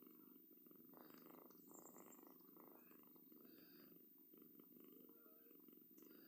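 A domestic cat purring faintly and steadily.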